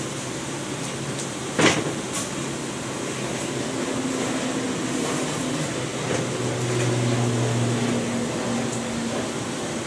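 Pork frying in a wok of hot oil, a steady sizzle, with one sharp clank of the metal stirring ladle against the wok about two seconds in. A low steady hum joins from about three seconds in.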